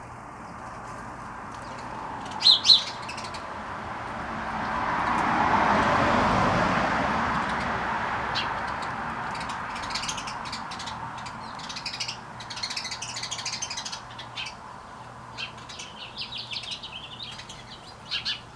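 Sparrows chirping: two loud chirps about two seconds in, then a quick, busy run of chattering chirps through the second half, the fighting calls of sparrows squabbling in mating season, a couple of males chasing a female. A rushing noise swells and fades in the middle, loudest about six seconds in.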